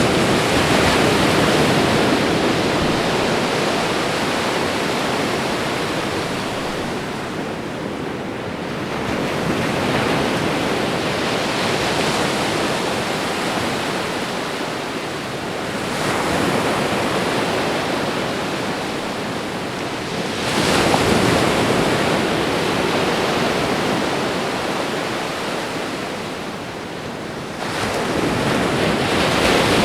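Ocean waves breaking and washing up the shore, one surge every five to seven seconds, with a steady hiss of surf between them.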